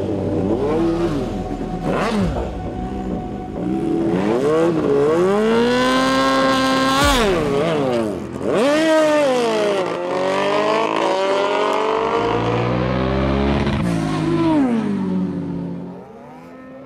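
A supercharged Kawasaki Z H2 inline-four is revved hard up and down several times at the drag-strip start line and held at high revs. It then launches, its pitch climbing in one long rise as it accelerates away. The sound drops off abruptly near the end.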